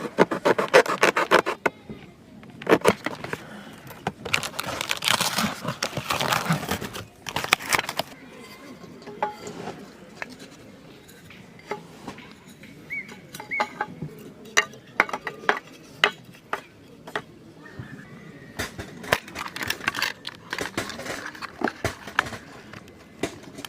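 Firewood and kindling being handled for a campfire: bursts of rustling and crackling with many sharp snaps and knocks, scattered single snaps between the busier stretches.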